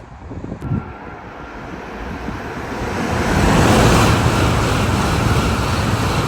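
Train passing at speed: a rush of wheel and air noise builds over about three seconds, then stays loud, with a faint steady whine above it.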